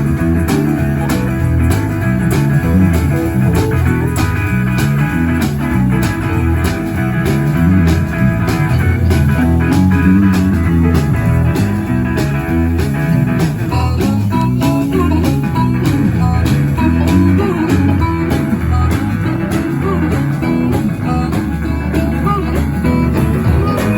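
Live blues band playing: guitar over a walking bass line and a steady drum beat.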